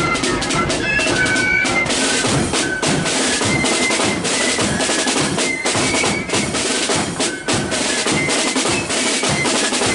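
Marching flute band playing a tune: high flutes carry the melody over snare drum rolls and a bass drum.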